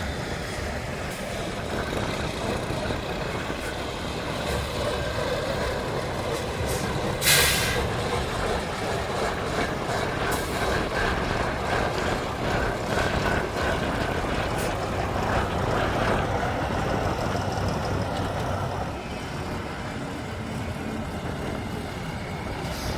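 A heavy truck's diesel engine runs continuously under load, with a short, sharp air-brake hiss about seven seconds in.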